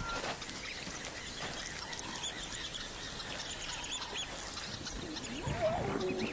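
Wild birds chirping in a busy, steady natural ambience, with many short high calls, and a lower drawn-out call that bends and then holds one pitch near the end.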